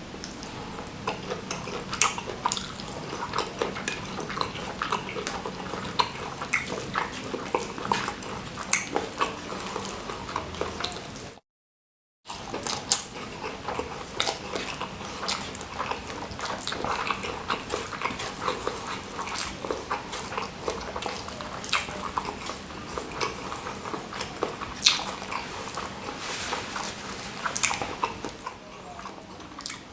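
Close-miked eating sounds: a person chewing salted squid sambal with rice, with a steady run of wet smacks and small clicks of the mouth. The sound cuts out completely for under a second partway through.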